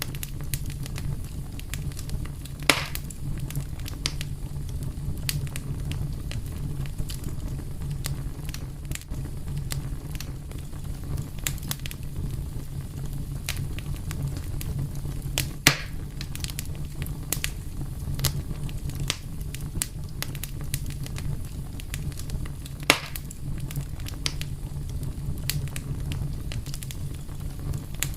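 A fire crackling steadily over a low, even rumble, with many small pops and three louder snaps: one about 3 seconds in, one midway and one about three-quarters of the way through.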